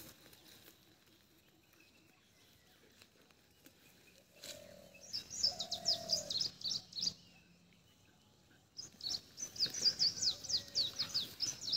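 A bird singing two bouts of rapid, high chirps, each note sweeping downward: one starting about five seconds in, a second from about nine seconds on.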